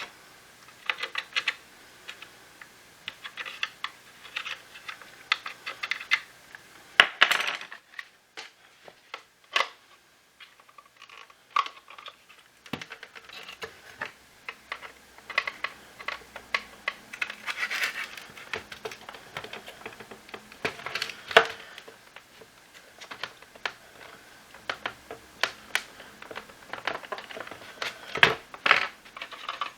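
Irregular clicks, taps and short rattles of hard plastic parts and small screws being handled as a Shark IF250 cordless vacuum is taken apart, some coming in quick clusters.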